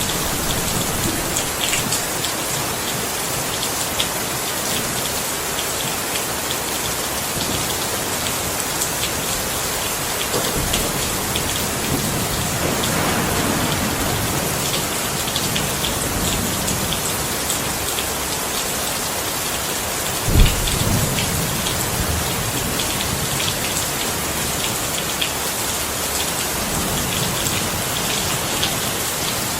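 Steady heavy rain pattering on a surface, with scattered drop ticks. Low rumbles of thunder swell up about halfway through, and a short, louder low rumble comes about two-thirds of the way in.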